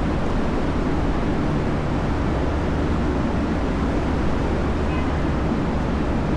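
Steady downtown street noise dominated by a low, even rumble of traffic.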